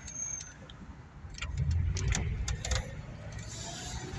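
Mercury Grand Marquis being driven, its engine and exhaust giving a low rumble that grows louder about a second and a half in, with a few light clicks.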